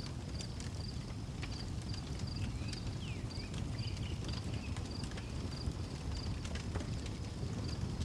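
Outdoor wood fire crackling, with frequent sharp pops over a low steady rumble. Crickets chirp in an even rhythm about twice a second, and a bird gives a few short sliding calls about three seconds in.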